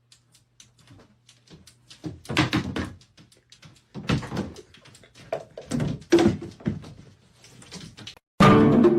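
A series of knocks and thuds, the loudest about two seconds in and again between four and six and a half seconds, over a faint low hum during the first half.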